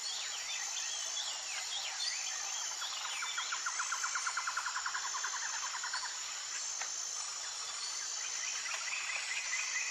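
Outdoor nature ambience: birds chirping, with a rapid trill from about three to six seconds in and another near the end, over a steady high-pitched insect chorus.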